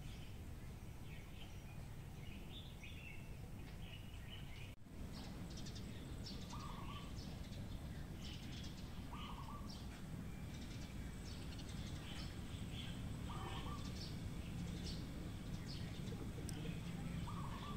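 Birds chirping over a low steady background rumble, with a brief dropout about five seconds in; after it a short, lower call repeats four times, a few seconds apart.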